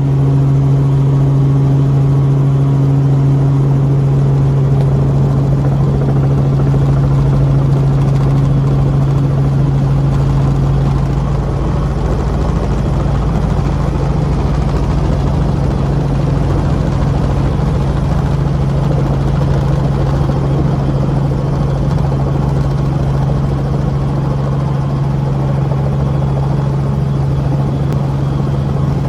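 Helicopter engine and rotors running with a loud, steady drone and a steady low hum, easing slightly about a third of the way through.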